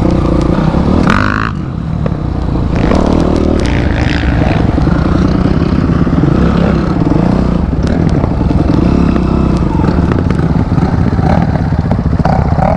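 A 250 cc motorcycle engine running hard off-road, its pitch rising and falling with the throttle, with knocks and clatter from the bike over rough ground.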